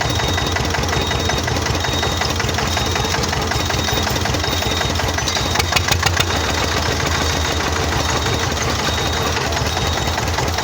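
Truck's diesel engine idling steadily with a clattering, even beat. About halfway through there is a quick run of about four sharp knocks.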